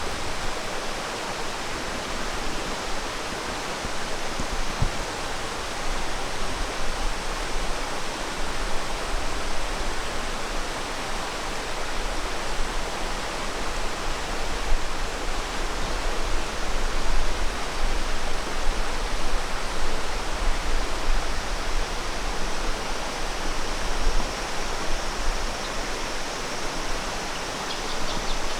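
Steady, even rush of flowing water, with a faint thin high tone joining in near the end.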